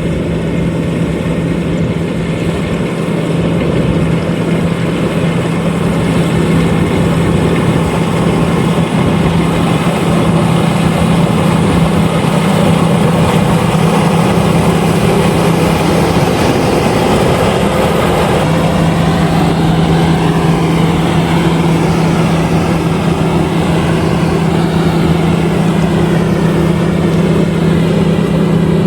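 LOVOL RG130EVO rice combine harvester running steadily, its engine and threshing machinery making a loud constant hum over a strong low drone. The drone dips briefly about two-thirds of the way through, then picks up again.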